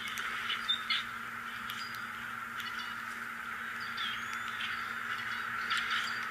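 A few short, high bird chirps over a steady background hiss.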